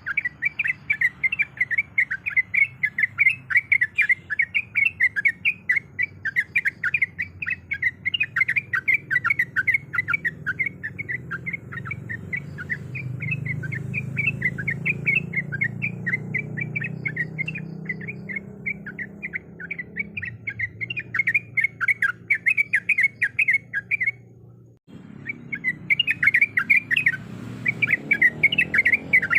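Yellow-vented bulbul (trucuk) chattering in a fast, unbroken run of short notes, with a brief break near the end before it starts again.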